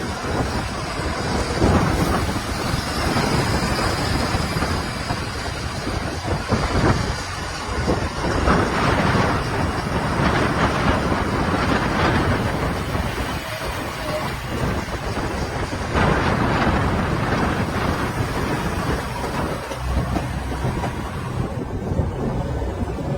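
Heavy diesel machinery running and working: a steady, rough rumble with several louder surges.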